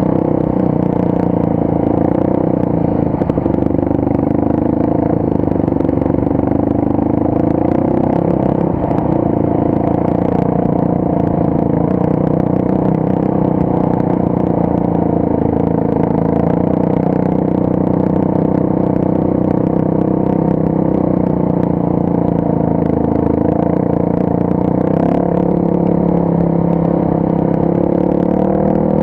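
Motorcycle engine running steadily at an even pitch while riding, with a few faint clicks and knocks scattered through.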